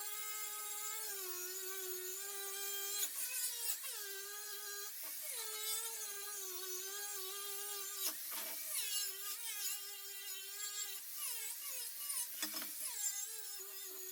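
Electric grinder whining on steel. Its pitch sags and wavers each time it is pressed to the metal, with harsher scraping bursts about three, eight and twelve seconds in.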